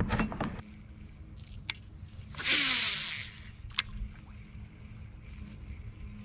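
A fishing cast with a rod and reel throwing a rattle trap lure: a sharp click, then about a second of swishing as the line pays out, then another sharp click, over a steady low hum.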